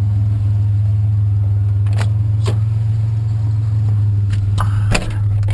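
Truck engine idling steadily, with a few sharp knocks and clunks over it.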